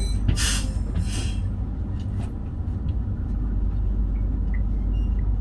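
Meitetsu Panorama Super electric train running, a steady low rumble of wheels and motors. Two short hisses of air come in the first second and a half, with a few faint knocks later.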